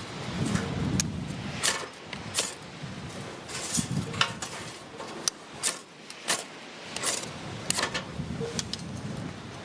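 Irregular light knocks and clicks, about one or two a second, of objects being handled, over a low steady rumble.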